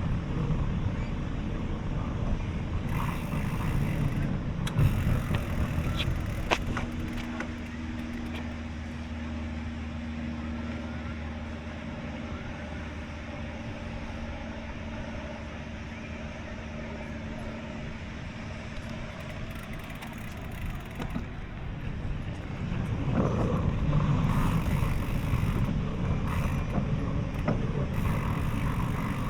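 Road traffic and wind noise picked up while riding a bicycle, with a steady low hum through the middle stretch and a few short clicks a few seconds in.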